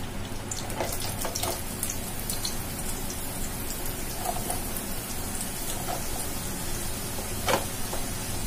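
Hot ghee sizzling and crackling in a non-stick frying pan as mashed sweet potato goes in, a steady hiss with scattered small pops and one louder click about seven and a half seconds in.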